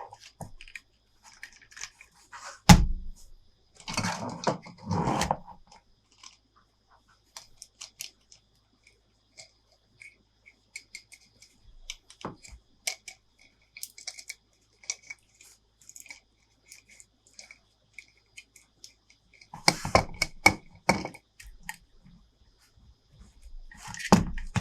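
Hands unboxing and handling a plastic toy playset and its packaging: scattered small clicks and taps, one sharp knock about three seconds in, and bursts of crinkling and rustling around five seconds in and again near the end.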